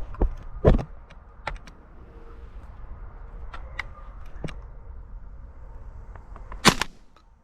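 Handling noise: scattered sharp clicks and light rustling over a faint steady background, with a louder clatter near the end.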